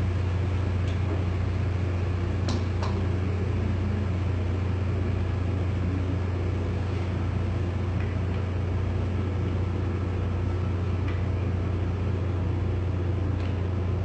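Steady low mechanical hum from a running machine, unchanging throughout, with a few faint light clicks.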